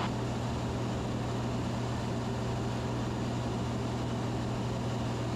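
Steady low drone of a Van's RV-10's engine and propeller in flight, climbing under power, with an even hum and no change in pitch.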